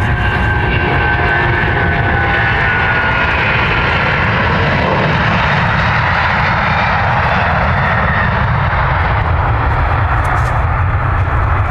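Jet airliner's engines running loud as it passes close by, a steady roar with low rumble and a high whine that glides down in pitch as the aircraft goes past.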